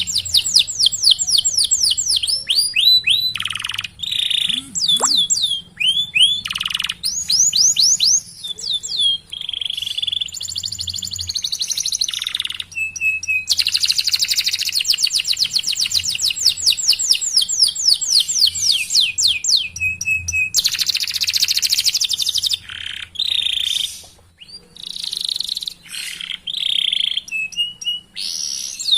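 Domestic canary singing a long, continuous song: rapid trills of repeated down-slurred whistled notes, one run after another with short pauses between.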